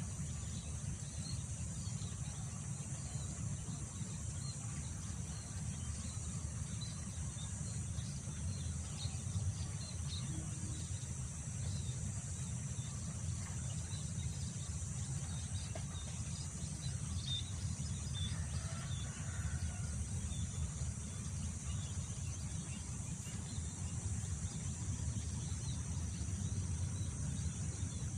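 Wind rumbling over the microphone, with a steady high drone of insects and faint scattered bird chirps.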